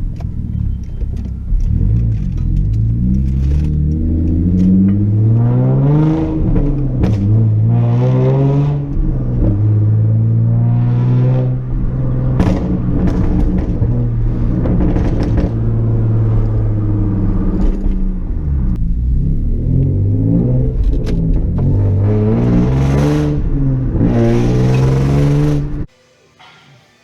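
Hyundai Genesis Coupe 3.8 V6 with a muffler delete and secondary cat delete running through its straight-piped exhaust, revving and accelerating so the pitch climbs and falls again and again. The note is a little raspy under load. It cuts off suddenly near the end.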